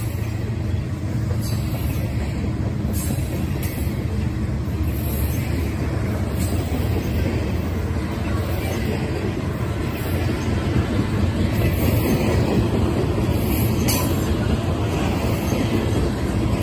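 Covered hopper cars of a freight grain train rolling past: a steady rumble of steel wheels on rail, with a few faint clicks.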